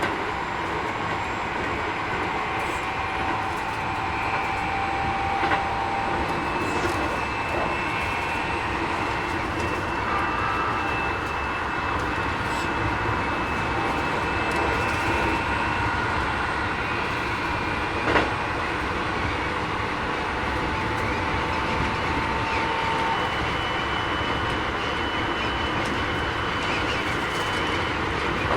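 Keikyu 1000 series electric train with Mitsubishi IGBT inverter drive, running steadily at speed, heard from inside the car: a continuous rumble of wheels on rail under a steady electric whine, with sharp clicks about 5 s and 18 s in. This unit runs a little louder than others of its class.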